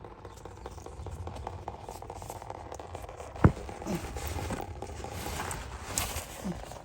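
Scraping and rubbing of hand tools working on a diesel fuel filter housing, with one sharp click about halfway through and a few softer knocks after it.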